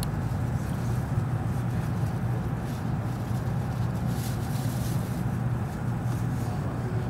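N700 series Shinkansen running noise heard inside the passenger car: a steady low hum and rumble as the train rolls slowly along the platform, braking to a stop at a station.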